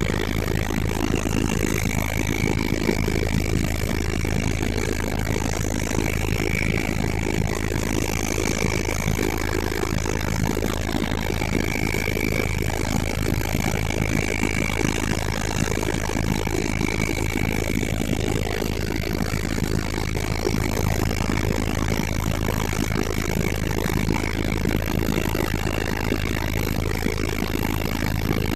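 Helicopter running steadily: a constant deep rotor and engine drone with a thin steady high whine over it.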